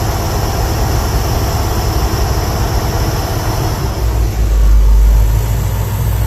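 Boat engine running steadily with a low drone. The low rumble swells louder about four seconds in.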